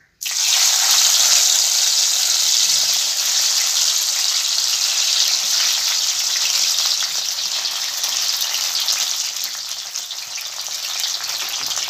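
Boiled and squeezed dried brinjal strips hitting hot oil in a pan: a loud frying sizzle that starts suddenly and goes on steadily, easing a little toward the end.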